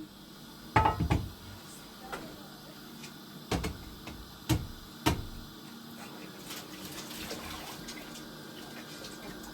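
A handful of sharp knocks or clatters, about five in the first half, over a steady low hum and a faint hiss.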